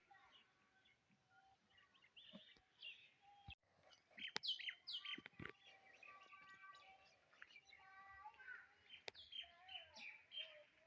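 Faint birds chirping in short, repeated calls, with a few faint clicks.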